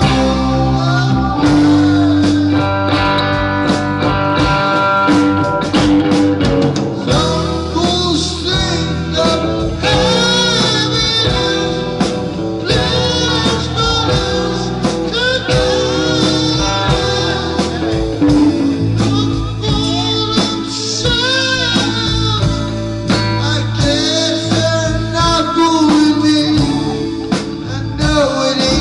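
Band playing an instrumental passage of a bluesy rock song, with guitar prominent.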